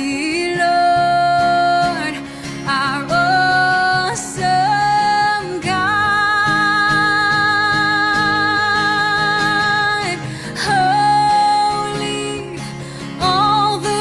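Worship song: a singer holding long notes over acoustic guitar accompaniment, one note held for about four seconds in the middle.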